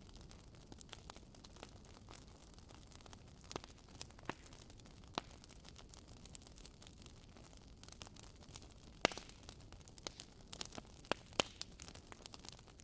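Wood fire burning in a fireplace, logs crackling with scattered sharp pops over a low steady hiss, the pops coming thicker in the second half, the loudest about nine seconds in.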